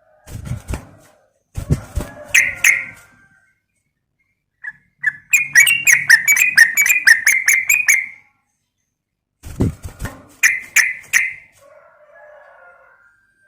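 Sooty-headed bulbul (trucukan) calling in short bursts of chattering notes, with a fast run of about a dozen sharp notes in the middle. Some of the bursts begin with low thumps.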